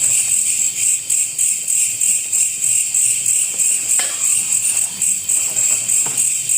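A loud chorus of insects: a high, shrill chirring that pulses evenly several times a second, with a weaker lower band under it. A faint knock sounds about four seconds in.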